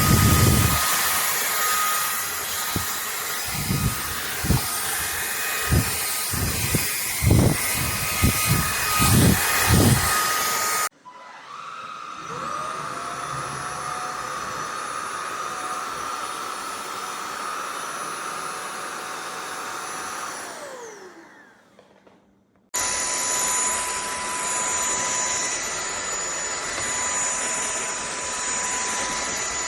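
INTETURE cordless stick vacuum running in three separate stretches. First it runs with a dozen or so thumps as it is pushed about. Then the motor starts up with a rising whine, runs steadily and winds down with a falling pitch. Last, it runs again with a steady high whine.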